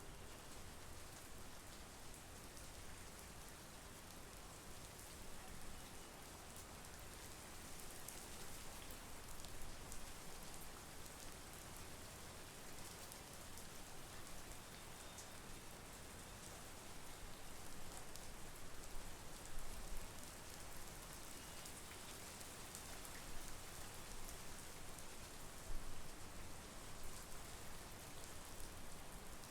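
Steady monsoon rain falling, an even hiss of drops with a few sharper, louder drop hits in the last third.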